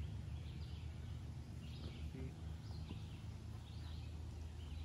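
Quiet forest ambience: small bird chirps about once a second over a low steady rumble.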